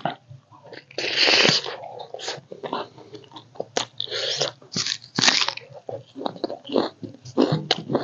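A person eating: biting and chewing food with crunches in irregular bursts, the loudest about a second in and again around four and five seconds in.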